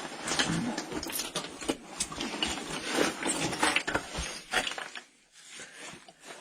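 Irregular scraping, rubbing and knocking of a caver's body and gear against rock while squeezing through a tight crawl. The noise dies down about five seconds in.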